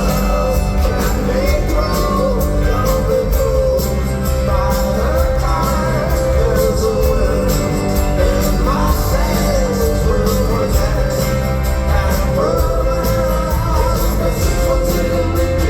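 Live rock band playing at full volume, with a sung melody over guitars, bass and drums, recorded from the audience in a large hall.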